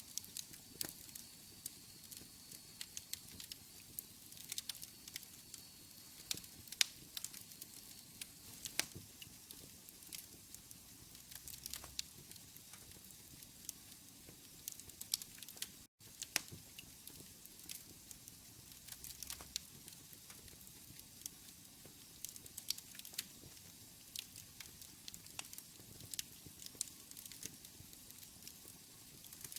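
Wood fire in a fireplace crackling: irregular sharp pops and snaps over a faint steady hiss, cutting out for an instant about halfway through.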